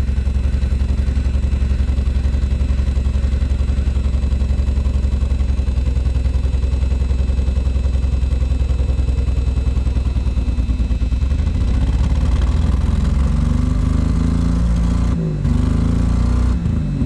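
Vehicle engine running steadily under load. About two-thirds of the way in its pitch rises and wavers as it is revved, with two brief drops near the end.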